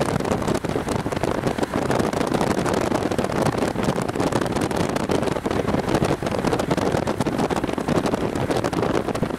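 Strong storm wind buffeting the microphone: a loud, steady rushing rumble with frequent crackles.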